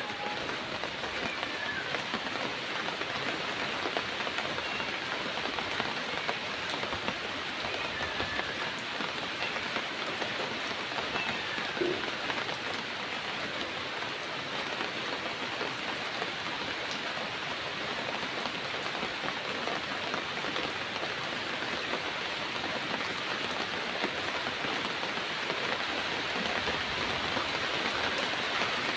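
Heavy rain falling steadily on surfaces, an even dense hiss that swells slightly near the end.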